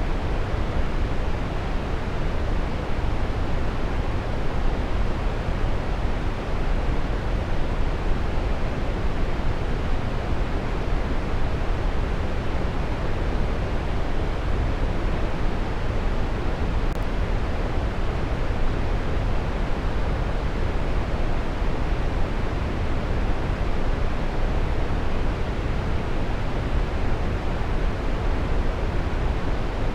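Waterfall rushing steadily: a dense, even wash of falling water, heavy in the low end and without change.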